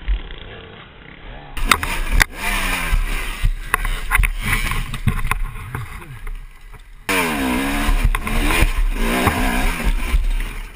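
Dirt bike engines revving up and down in short bursts, with scattered knocks and clatter.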